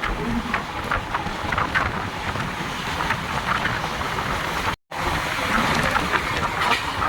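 Dadar–Tirunelveli Express in motion: a steady rumble of the running train with irregular rattles and clatter over the top. The sound cuts out for an instant a little under five seconds in.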